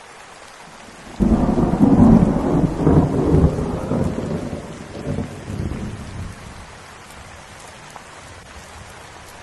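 Steady rain falling, with a thunderclap breaking in suddenly about a second in and rolling on in a deep rumble for about five seconds before fading back under the rain.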